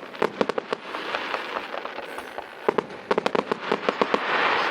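Fireworks display: rapid strings of sharp pops and crackles in two clusters, one at the start and one about three seconds in, with a crackling hiss that swells to its loudest near the end.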